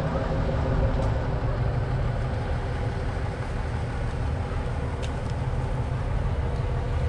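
Steady low rumble of a diesel-hauled train rolling slowly along the track.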